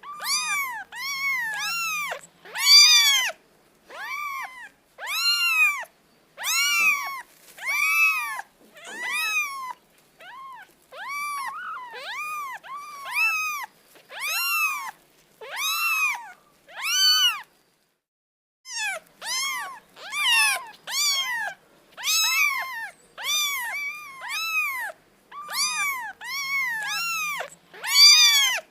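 A cat meowing over and over in short, high calls, each rising and falling in pitch, about one to two a second, with a brief pause a little past the middle.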